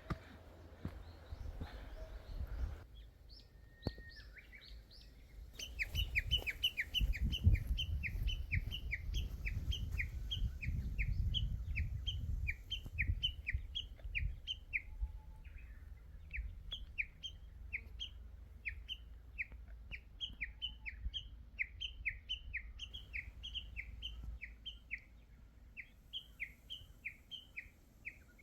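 A songbird singing a long run of quick, downward-slurred whistled notes, about three a second, beginning about five seconds in. A low rumble sits under the song for several seconds in the middle.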